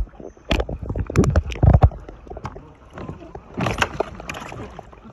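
Kayak paddling: irregular knocks and thumps of the paddle and hull with water splashes, heaviest in the first two seconds, with a splashy group a little before the end.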